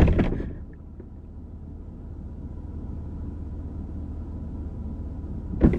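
A car door slammed hard at the start, then the steady low hum of the parked car heard from inside the cabin, and another sharp thump of the door just before the end.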